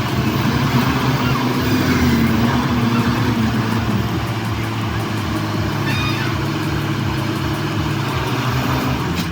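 A large diesel engine on heavy machinery running steadily, its pitch easing down a little partway through.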